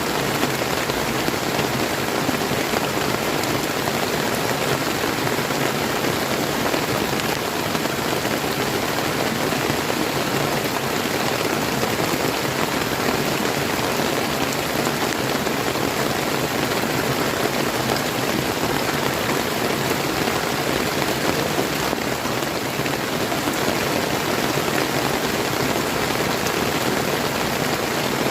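Steady rain falling together with the flowing water of a clear river, an even, unbroken hiss with no change in strength.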